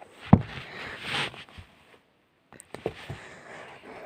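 Handling noise from a paperback book: a soft knock, then paper rustling, and a few light taps and rustles near the end.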